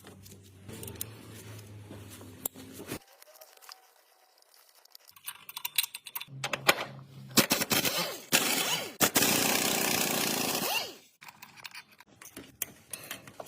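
Workshop sounds: a low steady hum, then scattered metallic clicks and clatter of hand tools. Near the middle comes a loud burst of about three seconds from a power or air tool, which cuts off sharply, followed by more clicks.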